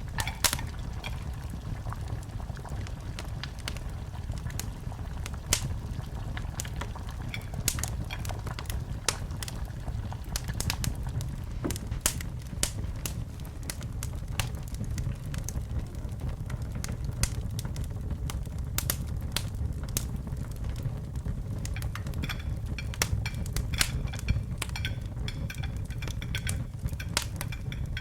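Wood fire crackling in a fireplace: frequent sharp pops and snaps over a steady low rumble of flames, the pops coming thicker in the last few seconds.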